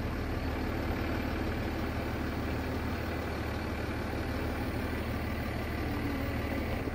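Car engine running steadily at low speed: a constant low hum with no breaks.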